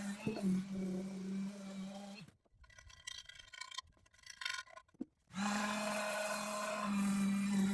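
Electric sander running against an aluminum wheel with a steady motor hum. It stops for about three seconds in the middle, then starts again.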